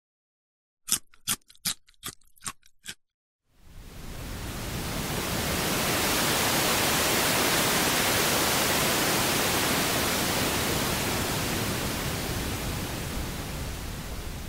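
About seven quick, sharp clicks in a little over two seconds, growing weaker, then a steady rushing hiss of water that swells in and slowly fades, with underwater seals as its source.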